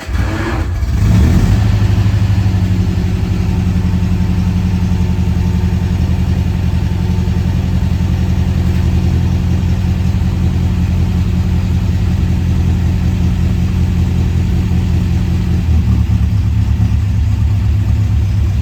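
1960 MGA's four-cylinder engine catching on a cold start with the choke out, after sitting for about five days. It fires right at the start, builds up within about a second and settles into a steady fast idle, with a slight change in the note about sixteen seconds in.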